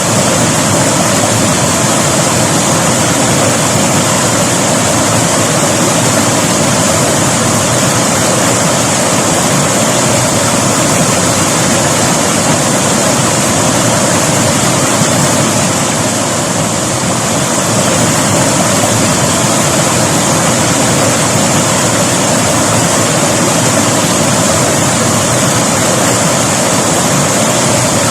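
River water rushing and splashing over rocks, a loud, steady, unbroken noise.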